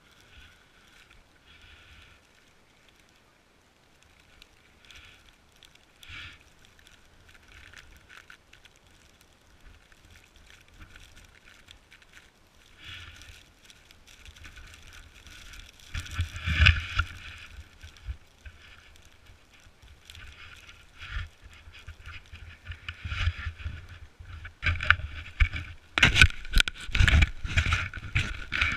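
Snowboard sliding and carving down a snowy slope, a scraping hiss from the board on the snow, with wind buffeting the microphone in a blizzard. It is faint at first and grows much louder from about halfway, with the strongest gusts and scrapes near the end.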